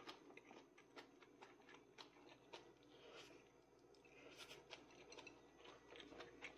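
Faint, irregular crunching clicks of a mouthful of stir-fried greens (green onion, leaf garlic and komatsuna flowering stalks) being chewed.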